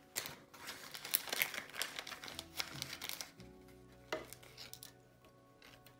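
Dubbing being handled for fly tying: quick crinkling and rustling for the first three seconds or so, then a single sharp click about four seconds in. Soft background music with long held notes runs underneath.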